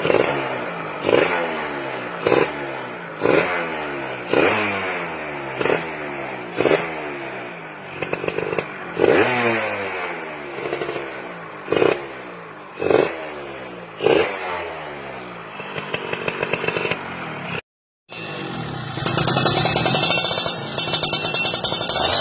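Yamaha F1ZR single-cylinder two-stroke engine revved through an aftermarket exhaust: a dozen or so sharp throttle blips, each dying back down in pitch, with a crackly two-stroke note between them. Near the end it cuts, after a brief silence, to a steadier, denser sound from a different recording.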